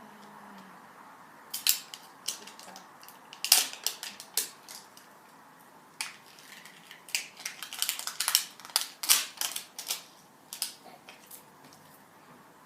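Plastic toy-ball wrapping being peeled and crinkled by hand: an irregular run of sharp crackles and snaps. It starts about a second and a half in and is busiest near the end before trailing off.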